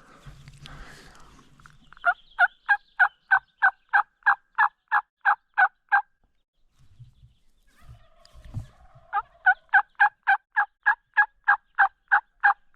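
Turkey yelping in two long runs of evenly spaced notes, about three or four a second. The first run starts about two seconds in and lasts some four seconds; the second starts a little past the middle. Between them there are a few soft low thumps.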